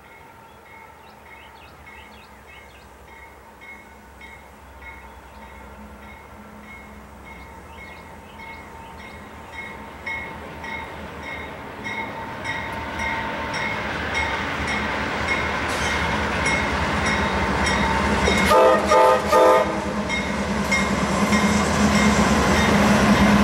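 Intermodal freight train led by GE Dash 9 diesel locomotives approaching and passing, the engine sound growing steadily louder, with a bell ringing at about two to three strokes a second. About 18 seconds in the horn sounds three short blasts.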